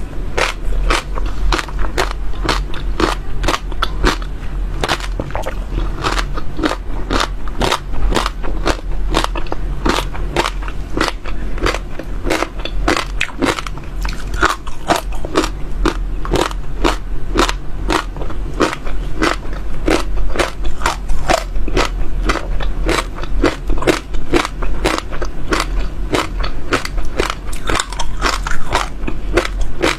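Close-miked crunching of seeds being bitten and chewed in the mouth: a steady run of crisp crunches, several a second, without a break.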